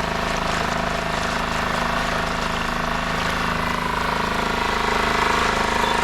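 Dinghy's outboard motor running steadily at a constant speed.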